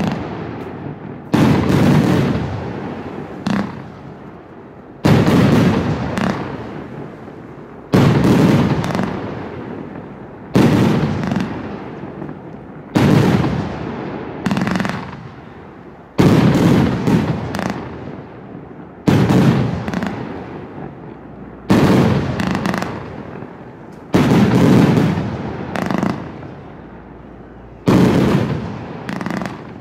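Funke Fermata 100A, a 100-shot firework battery assortment, firing in salvos: a volley of sharp reports about every two to three seconds, each dying away before the next.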